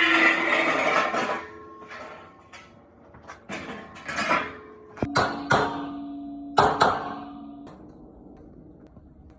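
Metal being struck in a workshop. A loud scraping clatter comes first, then four sharp clanks later on, each leaving a ringing note that fades.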